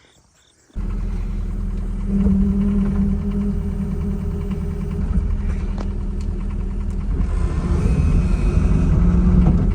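Heavy diesel engine of a farm vehicle running steadily. It comes in abruptly just under a second in and picks up load about two seconds in.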